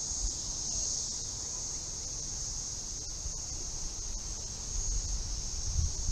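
Steady, high-pitched chorus of insects, with wind rumbling on the microphone in the last second or so.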